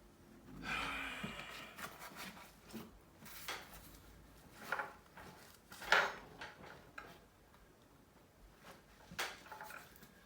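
Small hard objects being handled on a desk: a scrape and rustle, then a string of separate sharp clicks and light knocks of tools and small parts being picked up and set down.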